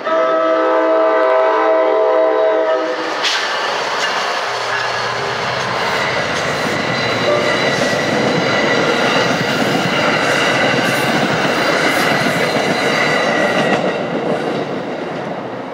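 NJ Transit passenger train sounding its multi-note horn for about three seconds, then passing through the grade crossing. The wheels clatter over the rails in a loud, steady rumble that starts to fade near the end.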